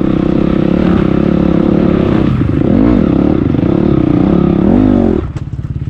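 Motocross dirt bike engine running hard with the revs rising and falling a couple of times, then dropping suddenly to a low, evenly pulsing idle near the end.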